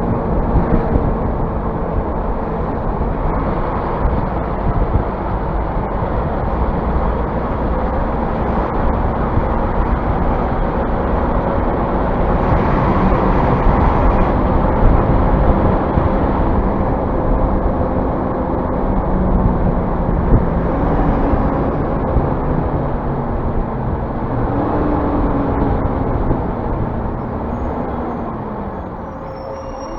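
Scania bus engine running under way with heavy rumble and road noise; near the end the engine note rises, then falls away as the sound gets quieter.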